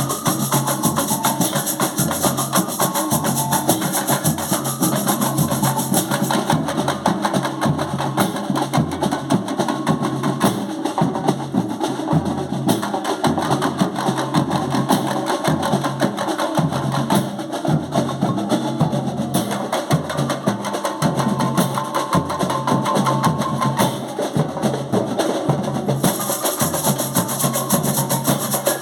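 Carnival batucada drum section playing a continuous, dense samba-style rhythm: deep drum beats under sharp, clicking strikes.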